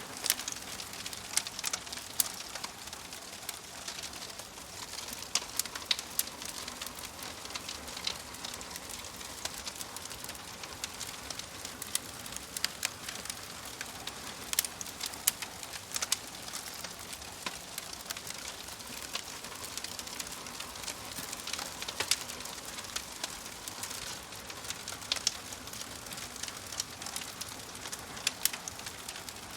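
Wood fire burning in a wood-burning stove: a steady hiss with frequent irregular sharp crackles and pops.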